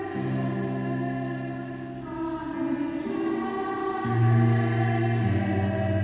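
Mixed choir singing long held chords, the harmony changing every second or two and swelling louder about four seconds in.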